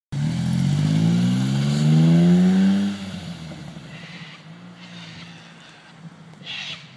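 Suzuki hatchback's small petrol engine revving hard as the car pulls away, its pitch rising steadily for about three seconds before dropping off suddenly and fading as the car moves off. A brief high-pitched sound follows near the end.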